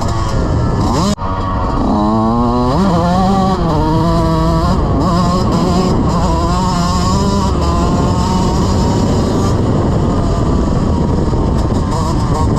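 Dirt bike engine under way: it revs up quickly about two seconds in, then holds a fairly steady, slightly wavering pitch while riding. Heavy wind rumble on the microphone throughout.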